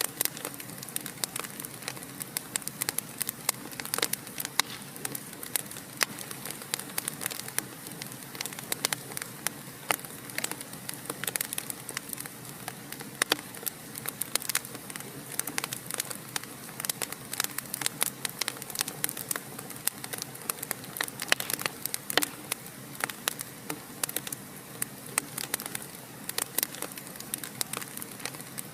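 Wood fire in a fireplace crackling and popping: many small irregular snaps over a soft steady hiss.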